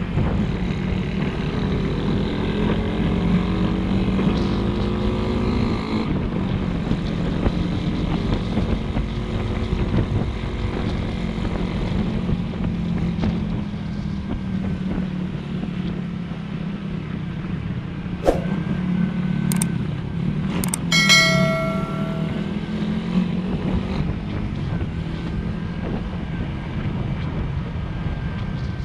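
Motorcycle engine running steadily under way, with road and wind noise. The engine pitch climbs a little in the first few seconds. A few sharp clicks sound about two-thirds of the way through, followed by a short, high, pitched beep.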